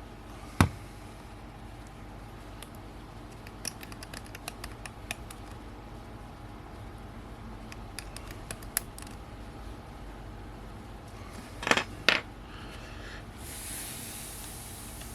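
Small lens parts and tools being handled on a workbench during disassembly of a camera zoom lens: a sharp click, scattered light ticks and taps, then two louder scraping clicks. A steady hiss starts near the end.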